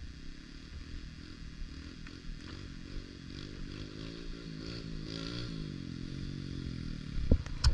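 Pit bike engine revving, its pitch rising and falling several times, with two sharp clicks near the end.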